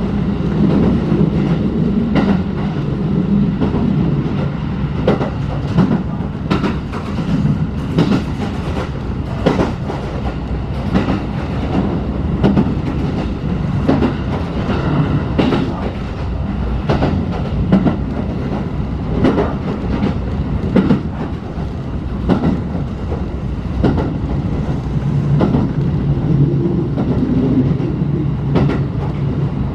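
Inside a moving passenger coach: the steady rumble of the running gear, with sharp clacks every second or two as the wheels cross rail joints.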